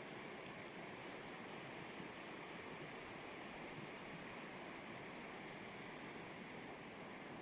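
River rapids rushing: a steady, even wash of water noise that doesn't change.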